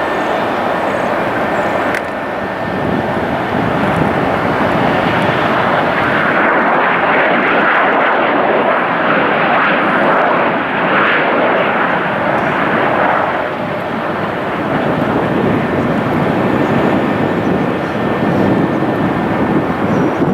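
A jet airliner's engines running as it passes close by. The noise is loudest from about six to thirteen seconds in, then eases to a lower rush.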